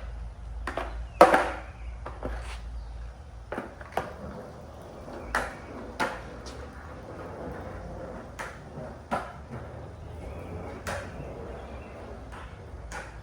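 Skateboard clacking and knocking in a string of irregular sharp hits, the loudest about a second in, over a low rumble.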